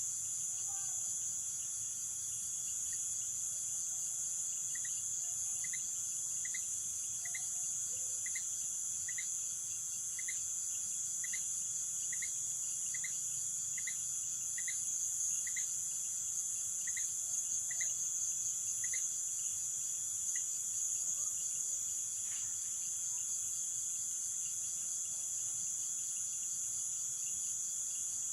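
Amazon rainforest night chorus of insects, crickets among them: a dense, steady, shrill high buzzing with a constant ringing tone beneath it. Over it, a series of short repeated notes, a little more than one a second, starts a few seconds in and stops about two-thirds of the way through.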